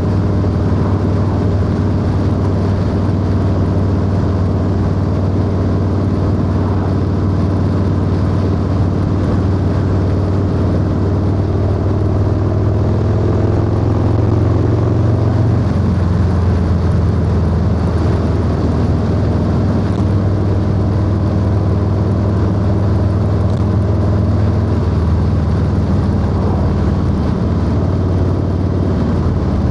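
Harley-Davidson Low Rider S V-twin with a 2-into-1 exhaust, running steadily at cruising speed on the road. The engine note shifts a little about halfway through.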